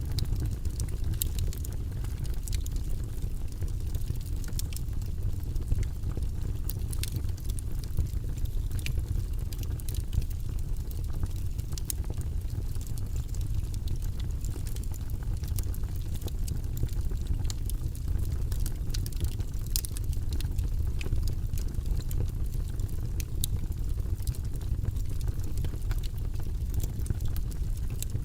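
Wood logs burning in a fireplace: a steady low rumble of the flames with frequent sharp crackles and pops scattered throughout.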